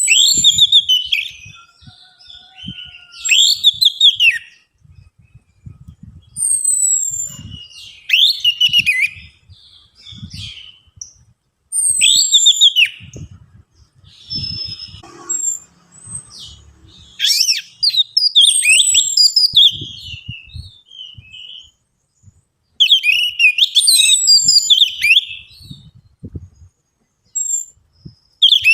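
Orange-headed thrush song played as a lure recording: short phrases of high whistles and quick warbled notes, several opening with a falling whistle, repeated every few seconds with brief pauses between.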